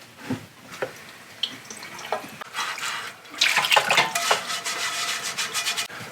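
Kitchen tap running into a sink while a pan is scrubbed with a soft-bristle scrubber. The water and scrubbing get louder about three and a half seconds in.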